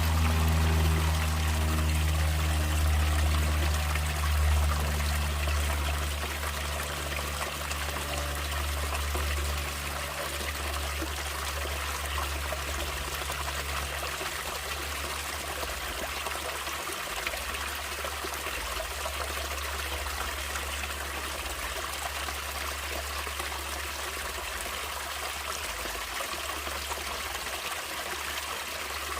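Stream water trickling and flowing steadily. Soft background music with low held notes fades out over the first several seconds.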